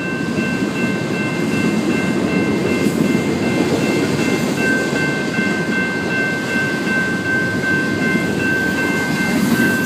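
A train passing at speed: a steady rumble of rail cars rolling by on the track, with thin steady high-pitched tones over it.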